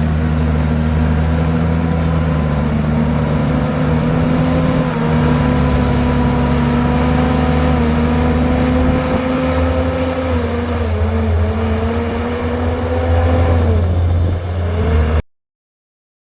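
Komatsu bulldozer's diesel engine running steadily under load, its note dipping briefly a couple of times near the end before the sound cuts off suddenly.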